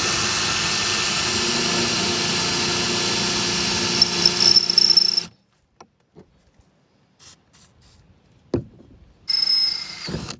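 Power drill running steadily for about five seconds, cutting off suddenly, then a second shorter run near the end, with a single knock between.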